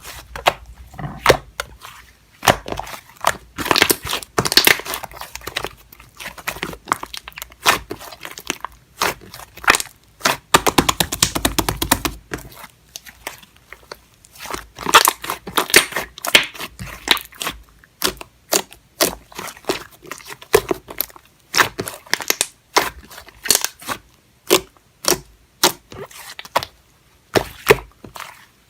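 Slime being squeezed and pressed by hand, a continual run of sharp crackling pops and clicks with short pauses between handfuls.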